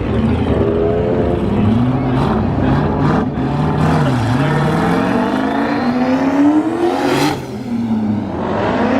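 A performance car's engine revving hard as it accelerates away, its pitch climbing steadily for several seconds. About seven seconds in there is a sharp crack as the pitch drops, like a gear change, and it climbs again near the end.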